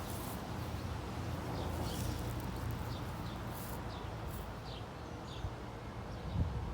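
Outdoor ambience: a steady low rumble with scattered short bird chirps throughout and a few brief rustles.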